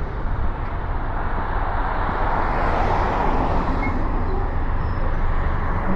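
Vehicle road noise: a steady low rumble under a broad hiss that swells and fades a couple of seconds in.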